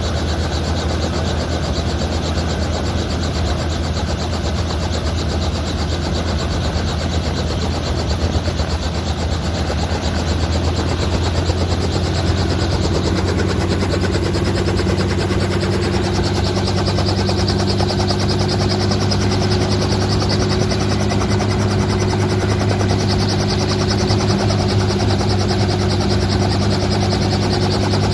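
Helicopter running steadily and loud, a dense rapid blade chop over a low engine hum. A higher hum comes in and rises slightly in pitch about halfway through, then holds.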